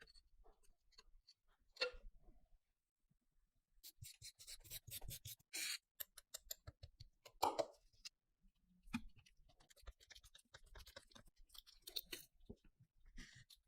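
Quiet restoration hand work on gun parts: intermittent scratching and rubbing with scattered light clicks, and one louder scrape about seven seconds in.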